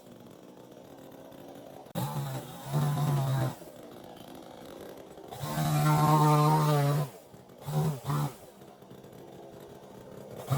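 Chainsaw engine revved in short throttle bursts: two brief revs about two to three seconds in, a longer rev around six to seven seconds, and two quick blips near eight seconds, dropping back to a low idle in between.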